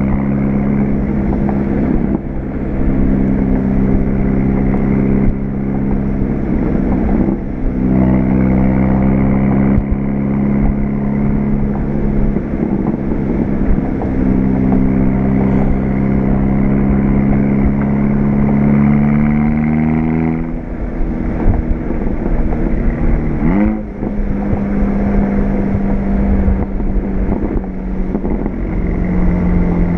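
Volkswagen GTI's turbocharged four-cylinder engine running through an APR turbo-back exhaust, with an APR K04 turbo. The exhaust note holds steady, climbs slowly in pitch for several seconds, drops suddenly about two-thirds of the way through, then sweeps up quickly and settles steady.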